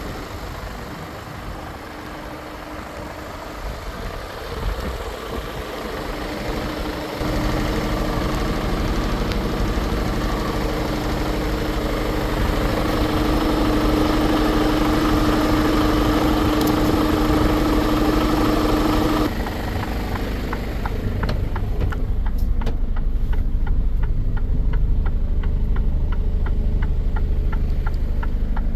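Mercedes-Benz Actros truck's inline-six diesel engine idling. About seven seconds in a louder steady hum comes in over it and cuts off suddenly partway through. The idle then runs on with a steady ticking of about three ticks a second.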